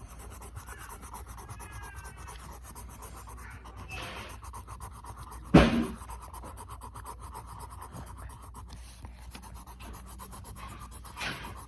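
Pencil scratching and rubbing on paper during drawing, with one sudden louder sound about halfway through.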